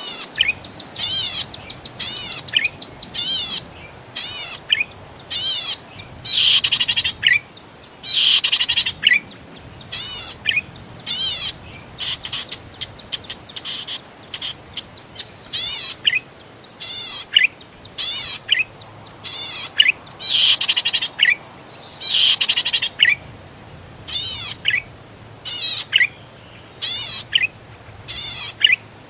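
Zitting cisticola (cici padi) singing: short bursts of rapid, high zigzag notes, many ending in a quick falling note, repeated over and over with brief pauses between.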